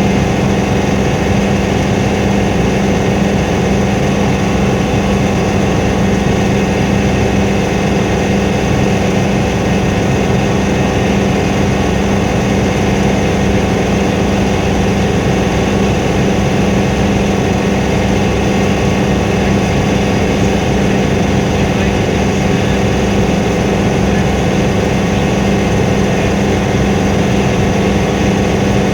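Helicopter noise heard from inside the cabin in flight: a loud, steady drone of rotor and engine with a constant low hum that does not change.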